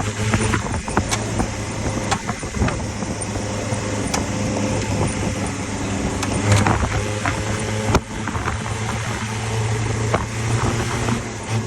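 Land Rover Defender 110's engine running steadily as it drives over snow, with frequent sharp clicks and knocks over the engine note.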